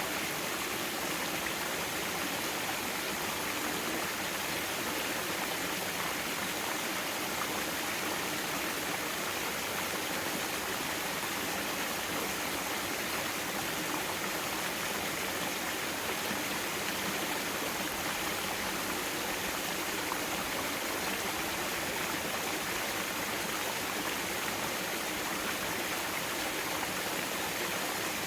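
Mountain stream flowing over rocks: a steady, even rush of water with no pauses or changes.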